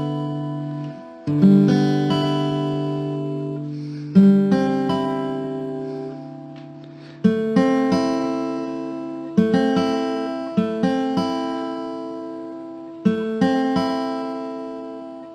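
Acoustic guitar playing slow chords, each strummed and left to ring and fade, a new chord every two to three seconds with a few single picked notes between.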